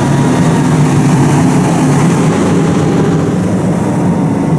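Fire engine's diesel engine running steadily: a loud, even low hum that holds one pitch.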